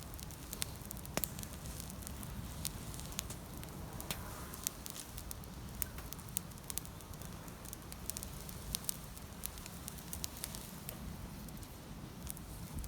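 Wood campfire burning, with irregular sharp crackles and pops.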